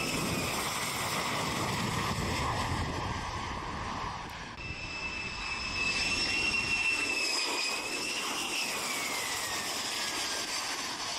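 Fighter jet engines running with a high, steady turbine whine over rushing noise. The sound changes abruptly about four and a half seconds in, and near the end the whine falls in pitch.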